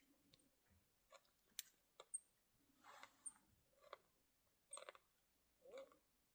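Near silence, broken by faint scattered clicks and a few short, soft crunching or rustling sounds.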